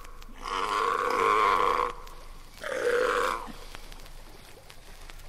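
Large animal calling: three drawn-out, pitched calls of about a second each, with short gaps between them.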